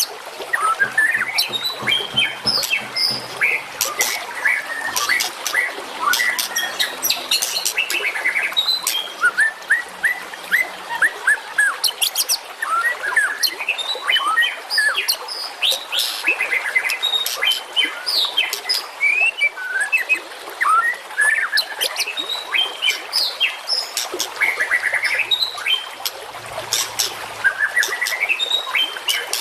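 Songbirds chirping and singing densely in a masteran birdsong training recording. Many quick chirps and short whistled notes overlap, broken by sharp clicking notes.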